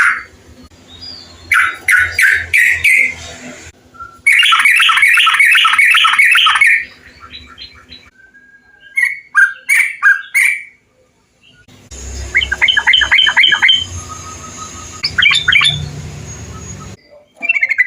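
Trucukan bulbuls calling in a string of spliced recordings: bursts of quick, repeated chattering notes, each clip cutting off abruptly before the next begins. These are the calls played to caged bulbuls as tutor and trigger sounds to get them singing.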